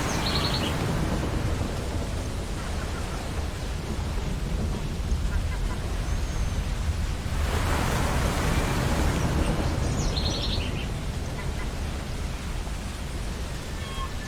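Ocean waves washing onto a beach, the surf swelling near the start and again about eight seconds in. Short high seagull calls come twice, near the start and about ten seconds in.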